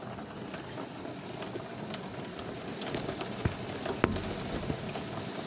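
Heavy rain falling steadily, a dense patter of drops on the house, with two sharp knocks a little past the middle.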